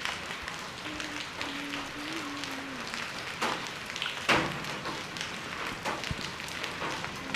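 Heavy storm rain pattering on surfaces, with scattered sharp ticks from drops or hailstones striking. One louder knock comes about four seconds in.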